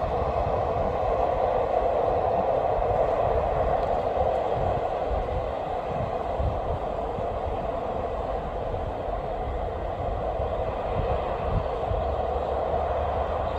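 Diesel train running steadily, a continuous rumble and drone that eases a little in the second half.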